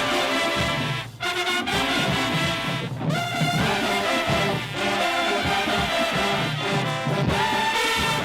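High school marching band playing: brass (trumpets, trombones, baritones, tubas) over the drum line, with a brief break in the music about a second in.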